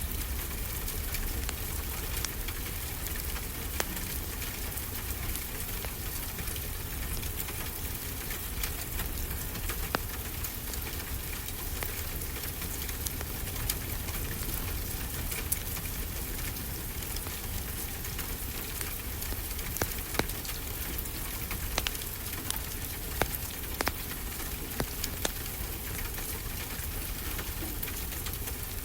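Wood fire crackling, with sharp irregular pops scattered through it, over a steady hiss and low rumble of ocean surf.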